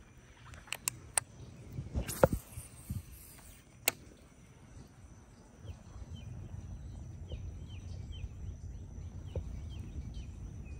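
A bird repeating short rising chirps, a little over two a second, over a low background rumble outdoors; a few sharp clicks and taps come in the first few seconds, before the chirping starts.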